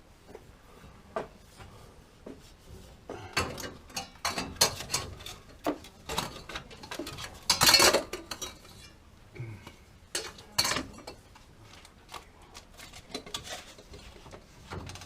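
Irregular metallic clinks and clatter of tools and metal pipe parts being handled, with a louder rattle about seven and a half seconds in.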